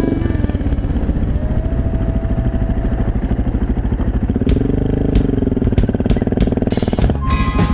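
Dual-sport motorcycle engine running under way, its pitch rising and falling once about halfway through, with sharp clicks and clatter later on. Music comes in near the end.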